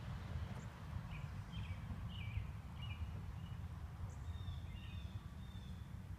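Quiet outdoor ambience: a steady low rumble with a few short bird chirps scattered through it.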